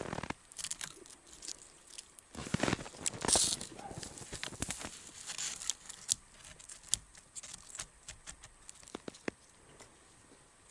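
Crunching and rustling in snow, with scattered sharp snaps and clicks that thin out toward the end.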